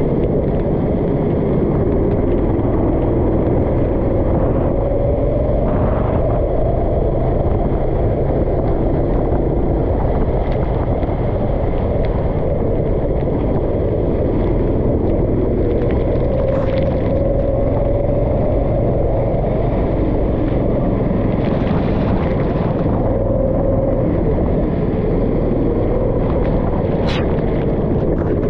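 Kart engine running steadily, its pitch slowly rising and falling as it speeds up and slows through corners, with wind buffeting the microphone.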